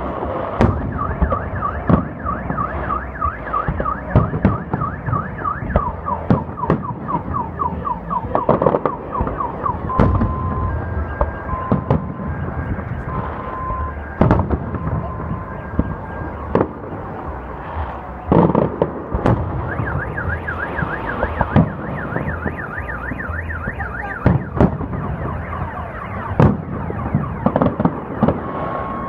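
Fireworks salute with repeated sharp bangs throughout. Over them a car alarm cycles through its tones: a fast warbling siren for the first several seconds, then a run of alternating single beeps at two pitches, then the warble again.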